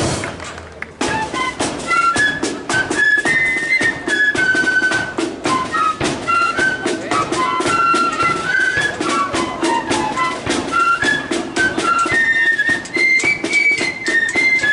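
Marching flute band playing a tune: a line of flutes carrying the melody over steady snare and bass drum beats, starting up about a second in.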